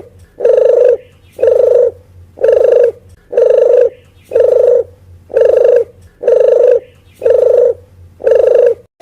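Lure call of a puter geni dove: a short, low, rough coo with a rapid flutter in it, repeated evenly about once a second, nine times in a row.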